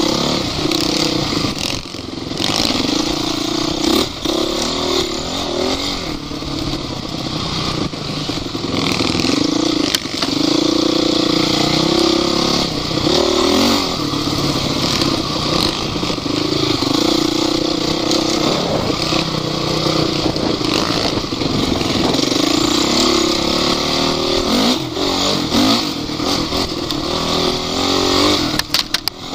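Off-road vehicle's engine running hard, its pitch rising and falling as it revs up and down, with scattered knocks and rattles.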